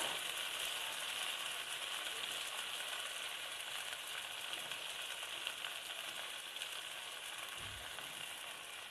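Chopped okra sizzling steadily as it fries in hot oil in a metal kadhai, stirred with a slotted metal spatula through the first half; the sizzle eases a little toward the end.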